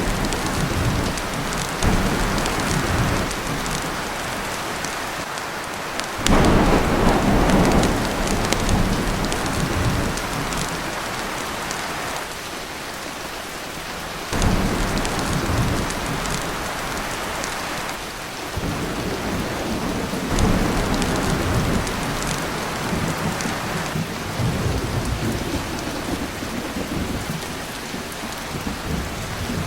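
Heavy rain pattering steadily on a tin roof, with repeated rolls of thunder breaking in suddenly and fading. The loudest thunder comes about six seconds in.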